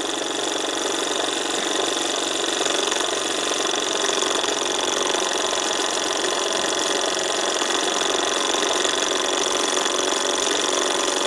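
Davies Charlton hot air engine running steadily at good speed over a ceramic gas burner, with an even hiss and no change in pace. It is running well on the increased pressure from a freshly topped-up gas bottle.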